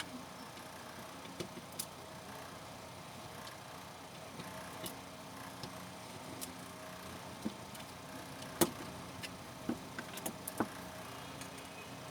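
Scattered light clicks and taps, with a few sharper ones bunched a little past two-thirds of the way through, over a steady faint hum.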